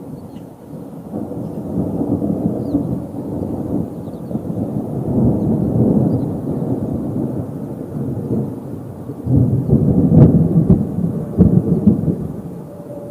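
Thunder rolling in long low rumbles that swell and fade, with a sharper, louder burst of crackling rumble about nine to ten seconds in before it dies away.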